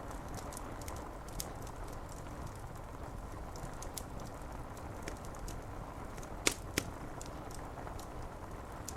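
A fire crackling with scattered small pops, and two sharper pops close together a little past the middle, over a steady hiss of rain on window glass.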